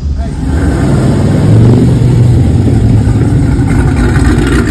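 Loud, deep engine rumble from cars driving slowly past, swelling about a second and a half in and then holding steady.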